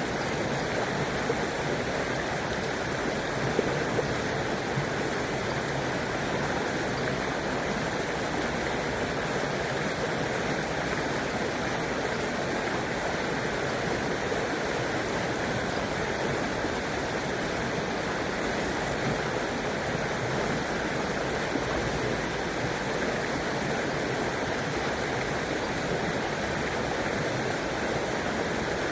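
River water flowing and rushing steadily, an even unbroken wash of water noise.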